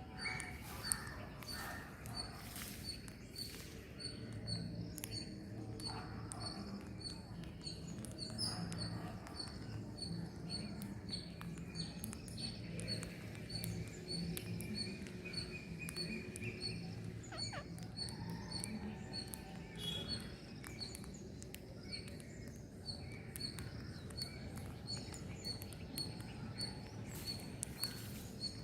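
A bird chirping over and over, short high chirps at an even pace of about two to three a second. A lower pitched sound runs underneath through much of the middle.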